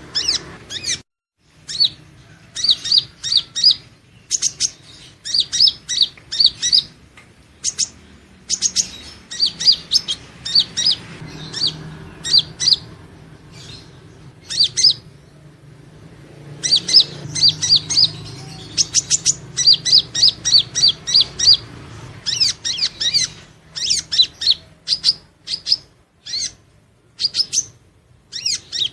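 Purple-throated sunbird (Leptocoma sperata) singing: rapid runs of high, thin chirps in repeated bursts with short pauses between them, over a faint low hum.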